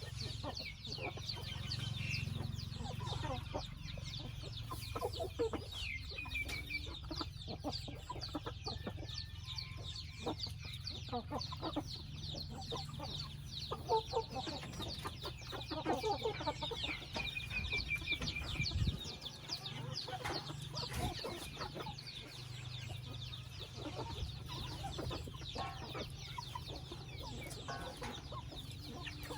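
Chickens clucking continuously, with many short high-pitched calls crowding over one another, over a low steady hum.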